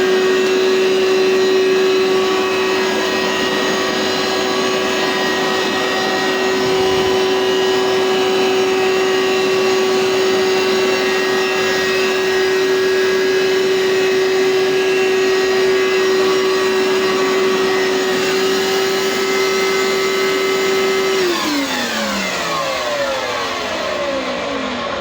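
Hoover SteamVac carpet cleaner running with a steady whine, then switched off a little over 20 seconds in, its motor winding down with falling pitch.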